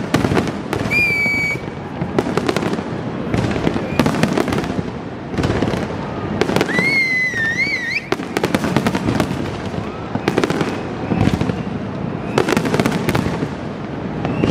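Fireworks exploding in quick succession: a dense run of sharp bangs and crackles over a constant rumble. Wavering high whistles cut through about a second in and again about seven seconds in.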